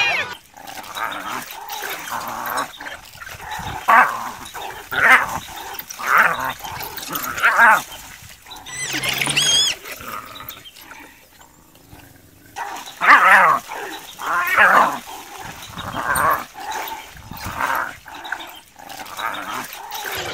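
Short, wavering animal yelps and whining calls, about one a second, from African wild dogs and hyenas clashing. About nine seconds in there is a higher squeal.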